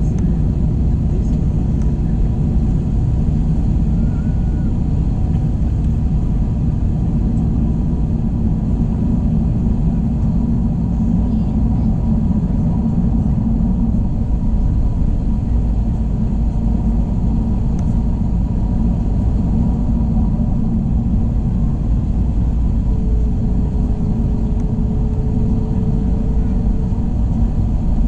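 Steady low roar of an Airbus A321 cabin in flight: engine and airflow noise heard from a window seat, with a faint steady tone rising out of it for a few seconds near the end.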